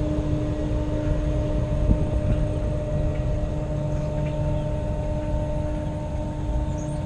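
Wind buffeting the microphone of a helmet-mounted camera during a bike ride: a steady, rough rumble with a constant hum over it.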